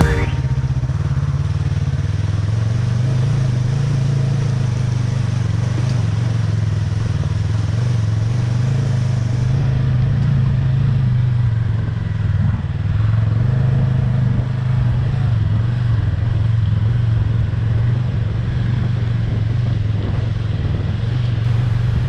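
Motorcycle engine running at a fairly steady pace while riding, with wind and road noise.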